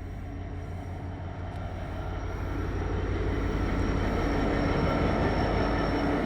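Freight train running through a station at speed: a low rumble with a faint steady hum over it, growing louder as the train draws near and at its loudest about four seconds in.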